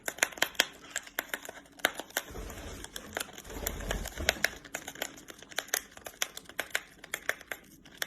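A parrot's beak picking and tearing at a tea packet: a quick, irregular run of sharp clicks, with a low rumble from about two to four and a half seconds in.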